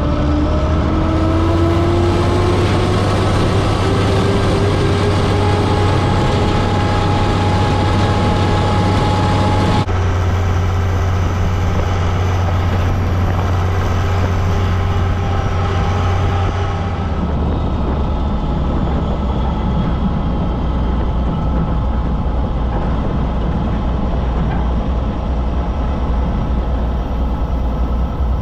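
International farm tractor's engine running steadily, with a whine that rises in pitch over the first few seconds. About two thirds of the way through, the engine note drops lower.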